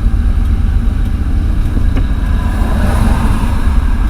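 Ford F-350 pickup's engine running, heard from inside the cab as a steady low rumble.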